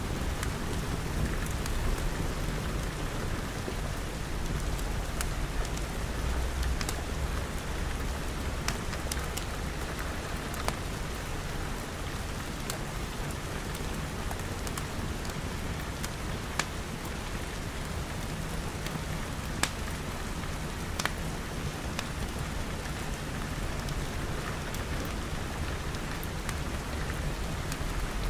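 Steady rain falling on glass panes and roof, with a low rumble underneath. Scattered sharp pops from a crackling wood fire come every few seconds.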